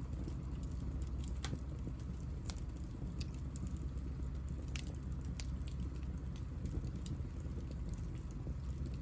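Hinoki cypress offcuts burning in a small fire: a steady low rumble of flame with frequent sharp crackles and pops.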